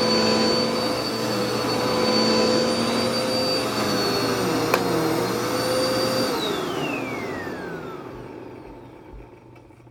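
Vacuum cleaner motor running with a steady whine, with one sharp click a little under five seconds in. About six seconds in it is switched off and winds down, its whine falling in pitch and fading almost away by the end.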